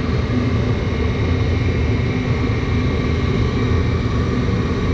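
Rheem gas furnace running: a loud, steady low rumble from its blower with a faint steady whine above it.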